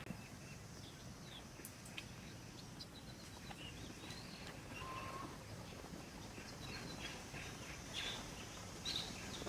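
Faint outdoor ambience: a steady low hiss with scattered short, high chirps and a few sharp clicks.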